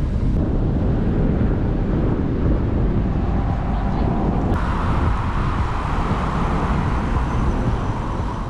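Wind rushing over a bike-mounted action camera's microphone while riding, with road and tyre noise; a higher hiss joins about halfway through.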